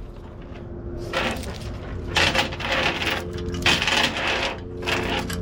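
Steel tie-down chain rattling and clinking as it is handled, in several uneven bursts starting about a second in.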